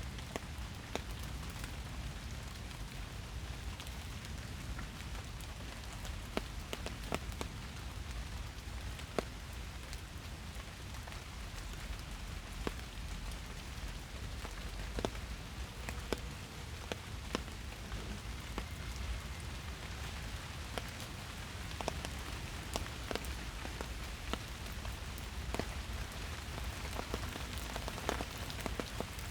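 Steady rain falling in a forest, a constant hiss with many separate drops ticking sharply on leaves and surfaces, under a low steady rumble.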